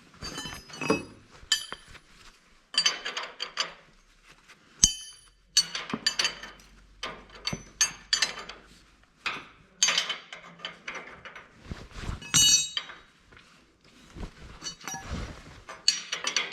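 Steel bolts, nuts and hand tools clinking and knocking against each other in irregular bursts of short, ringing metallic clinks, with one sharper knock about five seconds in.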